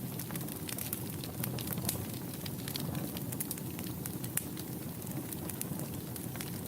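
Wood fire crackling in a fireplace: a steady low rumble of flames with irregular sharp pops and snaps, several a second.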